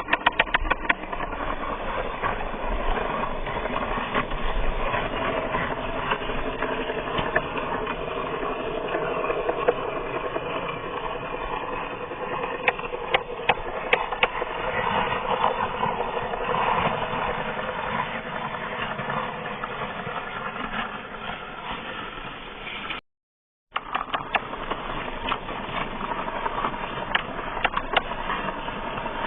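Small electric gear motor of a homemade toy tractor running steadily, a mechanical whine with a gear rattle and frequent ticks. It cuts out completely for under a second about 23 s in, then carries on the same.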